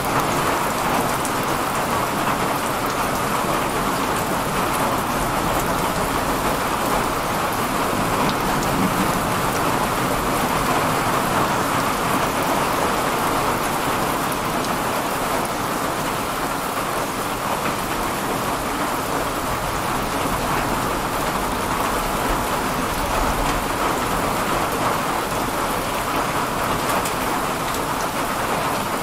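Heavy rain falling in a steady downpour during a summer thunderstorm, an even, unbroken hiss.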